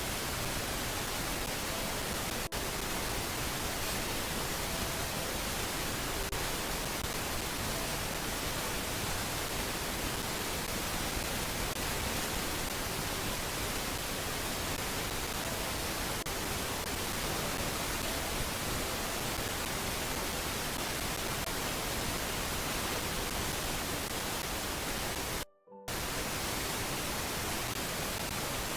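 Steady, even hiss of static from a nest camera's microphone, cutting out completely for a split second near the end.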